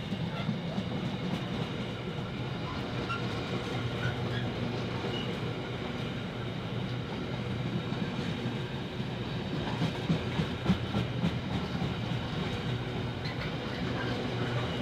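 A train running past on the railway, with a steady low drone and wheels clicking over the rail joints; the clicks are loudest about ten to eleven seconds in.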